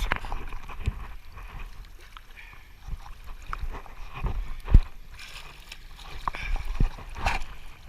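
Water sloshing and splashing irregularly as a person wades through shallow water, with one heavy low thump a little past the middle.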